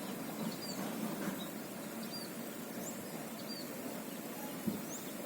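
Short, high chirps repeating about once a second over steady background noise, like a small bird calling.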